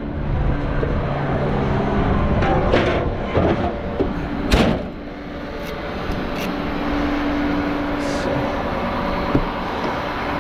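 A vehicle engine running steadily, with a few knocks and a sharp door-like thump about four and a half seconds in.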